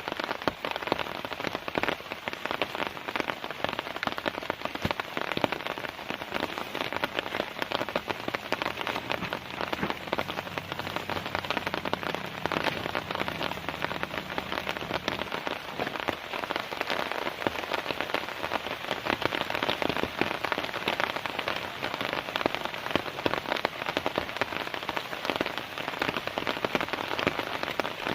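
Heavy rain falling steadily on a camping tent, with many separate drops heard striking the fabric. A faint low hum comes in about 8 seconds in and fades out around 15 seconds in.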